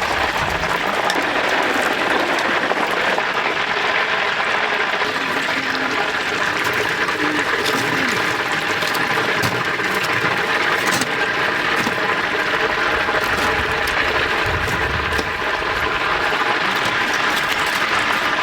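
Chicken deep-frying in a vat of hot oil: a steady sizzle with scattered crackles and pops.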